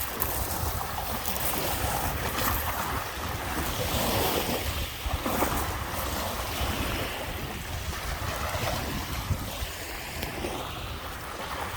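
Lake Michigan waves washing onto the beach, rising and falling in swells, with wind buffeting the microphone in a low rumble.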